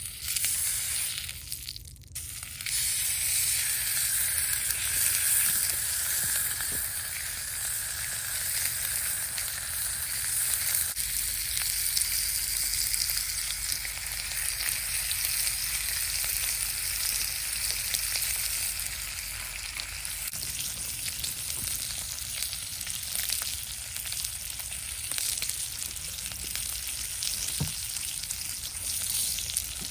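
Food sizzling as it fries in a hot pan, a steady crackly hiss that starts suddenly, breaks off briefly about two seconds in, then carries on evenly.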